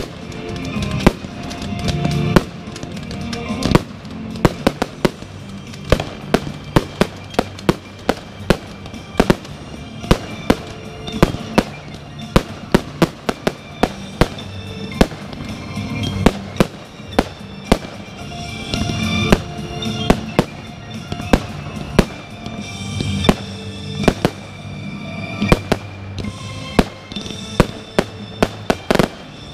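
Fireworks display: aerial shells bursting in a long string of sharp bangs, often several a second, over music played along with the show.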